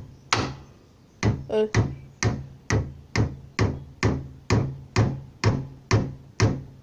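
Hammer blows on a golf ball, struck with the hammer's round end: a steady run of sharp knocks, about two a second.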